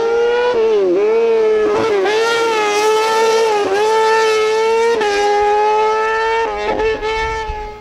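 Hillclimb race car engine held at high revs, a loud steady high-pitched note. The pitch dips briefly and recovers about four times before the engine note cuts away near the end.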